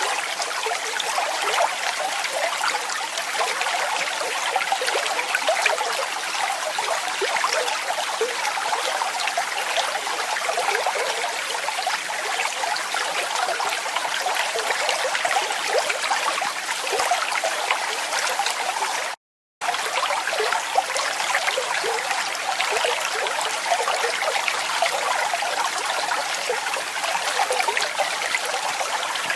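Water falling and splashing steadily, a dense even rush with little deep rumble. About 19 seconds in it cuts out to silence for a split second, then resumes unchanged.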